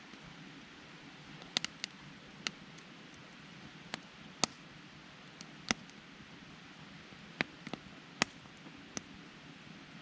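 Wood campfire crackling: sharp, irregularly spaced pops, roughly one or two a second, over a soft steady hiss.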